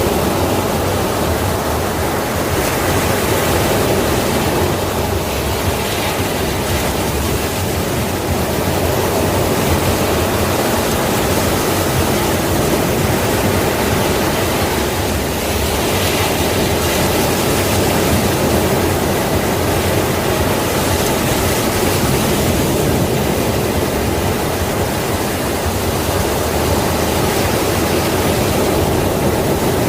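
Sea waves washing continuously onto a shore, a steady rushing surf that swells slightly every several seconds.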